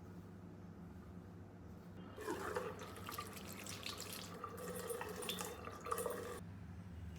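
Water running from a tap into a sink, turned on about two seconds in and shut off abruptly about a second before the end, over a low steady hum.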